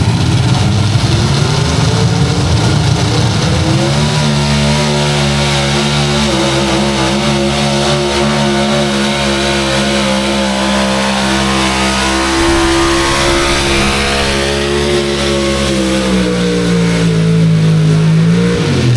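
A pulling truck's engine at full throttle down the track, hauling the weight sled. The revs climb over the first four seconds and hold high, sag as the truck slows near the end, then drop away sharply as the throttle is released.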